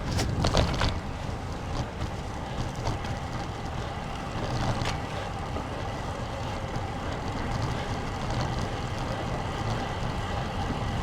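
Wind rushing over the microphone of a camera on a moving road bicycle, a steady low rumble in gusty wind, with tyre and road noise underneath. A few short clicks come about half a second in and again near five seconds.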